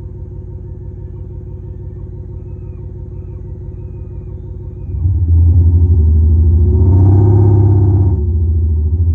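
Electronic engine sound played through a muffler speaker on a Prius PHV: a low idling rumble that gets louder about five seconds in, rises in pitch briefly like a short rev around seven seconds, then settles back to a steady rumble.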